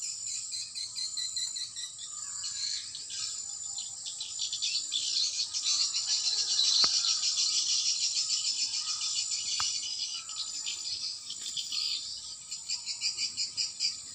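Dense, rapid high-pitched twittering of many swiftlets calling at a swiftlet nesting house, growing louder in the middle and easing off near the end.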